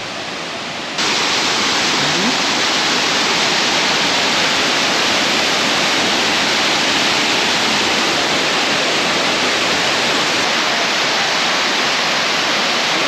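Waterfall: falling water rushing in a steady, dense roar that gets louder about a second in.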